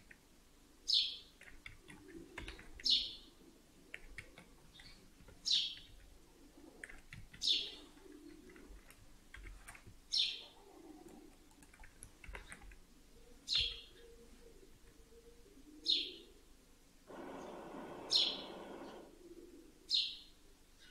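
A bird chirping over and over, one short chirp falling in pitch every two to three seconds, about nine in all. A short burst of rushing noise comes about three-quarters of the way through.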